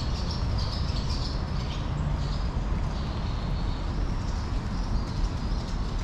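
Small birds chirping on and off, most busily in the first two seconds, over a steady low rumble.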